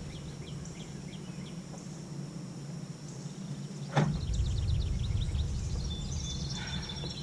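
Outdoor ambience of birds chirping in repeated short calls over a steady low hum, with a single knock about four seconds in followed by a low rumble.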